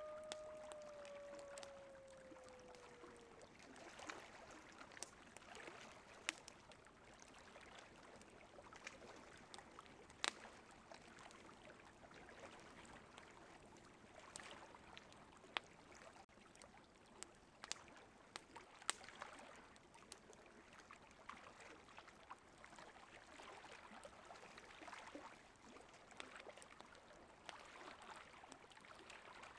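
Campfire crackling, with sharp irregular pops over the faint steady rush of a river. In the first few seconds a coyote's falling howl trails off.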